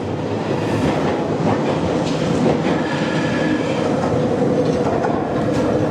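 Train running along the track: a steady rumble with wheel clatter and a constant hum, growing louder at the start.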